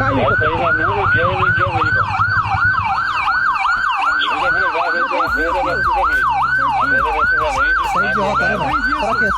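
Police siren in a fast repeating yelp, each note falling in pitch, about three a second, over the steady low hum of a vehicle engine.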